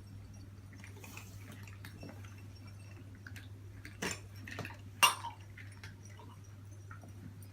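Cat food dishes and utensils clinking and tapping as dinner is set out, with a sharp clink about four seconds in and a louder one about a second later, over a steady low hum.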